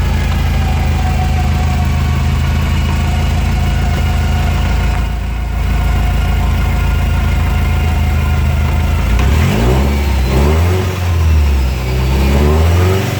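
Subaru Impreza GC8's flat-four engine idling steadily, then blipped several times from about nine seconds in, the pitch rising and falling with each rev. This is a drivetrain noise test; the owner says the rear differential mount moves too much and rattles.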